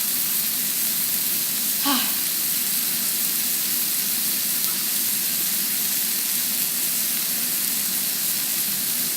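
Breaded chicken pieces sizzling as they cook: a steady hiss.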